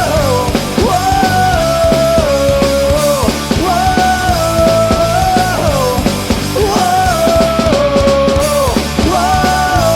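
Amateur punk rock band recording playing: drums and guitars, with a melodic phrase that repeats about every three seconds and slides down in pitch at the end of each phrase.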